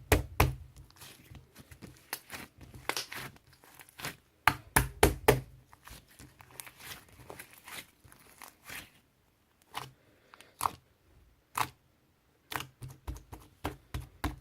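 Slime being squeezed and folded by hand, giving clusters of sharp crackling pops and clicks, thinning to single pops in the second half.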